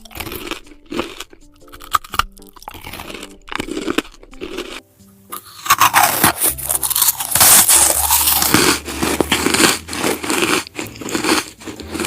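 Crunching of food being bitten and chewed, with background music. The crunching gets denser and louder about halfway through.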